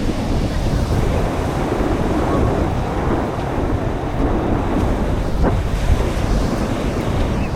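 Sea surf washing and breaking on the shore, with wind buffeting the microphone in a heavy low rumble.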